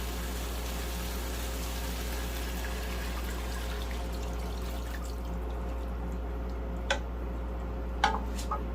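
Water being poured into a pot of browned chicken pieces for soup, a steady splashing hiss that stops about five seconds in. Three sharp knocks follow near the end.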